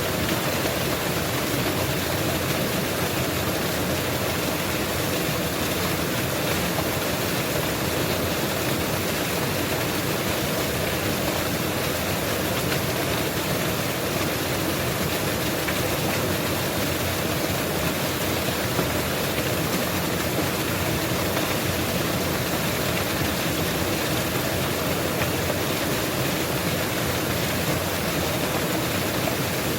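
Mountain waterfall: a steady, even rush of falling water, unchanging throughout.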